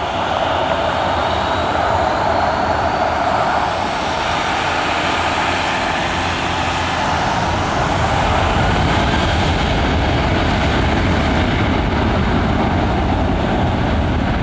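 Boeing 737-700's CFM56-7B turbofan jet engines running at high thrust on departure: a loud, steady jet noise with a faint whine that drifts slowly in pitch.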